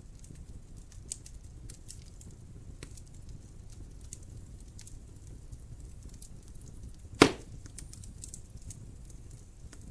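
Wood fire crackling in a fireplace: scattered small ticks over a low steady rushing of flame, with one loud sharp pop about seven seconds in.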